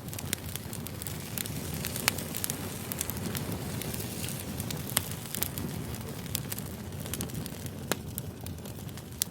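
Campfire crackling: a steady low rumble of burning with frequent small snaps and a few sharp, louder pops about two, five and eight seconds in.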